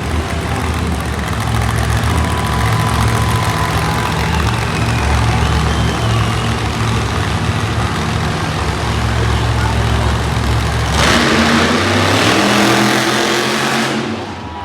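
Monster truck engine running with a deep, steady rumble, then revving hard about eleven seconds in, its pitch climbing for a few seconds before it drops back.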